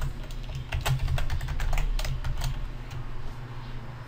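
Typing on a computer keyboard: a quick run of irregular key clicks that thins out near the end, over a steady low hum.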